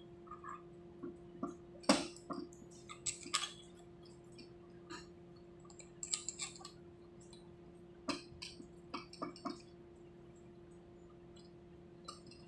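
Irregular clicks and clinks of small metal parts and tools being handled during a pneumatic cylinder repair, over a steady hum. The loudest click comes about two seconds in, with small clusters of clicks later on.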